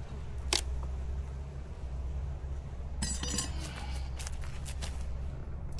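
A beekeeper's metal hive tool clicking and scraping against the wooden frames and boxes of a beehive: one sharp click, then a harsh scrape about three seconds in and a run of quick clicks, over a steady low rumble.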